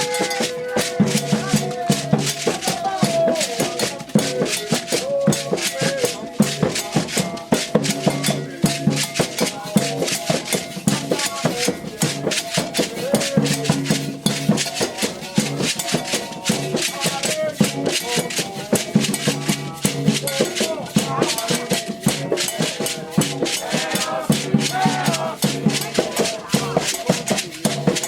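Candomblé ritual music: a shaken rattle keeping a dense, fast beat over drums, with chanted singing wavering above.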